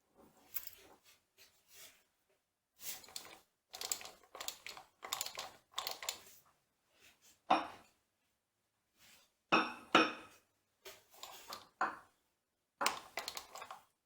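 Steel tools and machine parts clinking, scraping and knocking during gearbox disassembly, with a few louder, briefly ringing metal knocks about halfway through.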